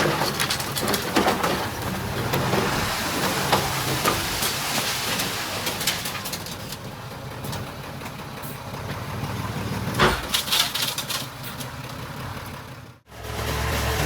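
Heavy earthmoving machinery at work: a diesel engine running amid clanks and knocks, with a louder cluster of knocks about ten seconds in. The sound breaks off abruptly shortly before the end.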